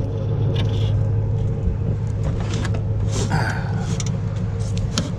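Truck running with a steady low engine hum, with a few short clicks and rattles over it.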